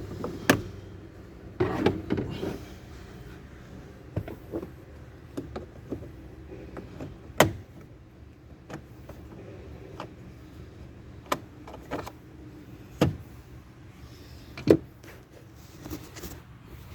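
Scattered sharp clicks and knocks, with a brief rustle about two seconds in, from hands and tools working on a car door's trim and screws to reach the power-window motor.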